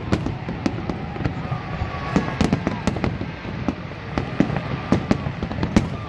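Fireworks display: a quick, irregular run of sharp bangs and crackles over a continuous low rumble of booms.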